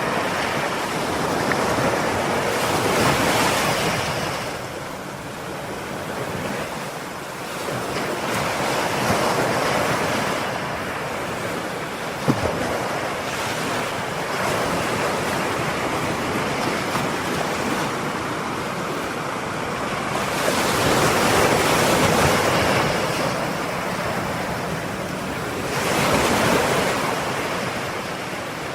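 Ocean surf: waves breaking and washing in, the rush of water swelling and ebbing every few seconds, with a single short click about twelve seconds in.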